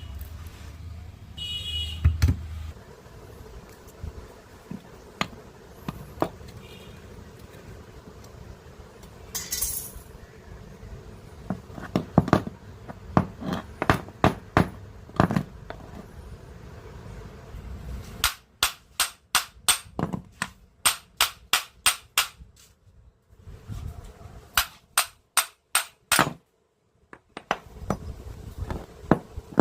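Sharp metallic taps and knocks on compressor parts, scattered at first and then in quick runs of about three to four strikes a second in the second half.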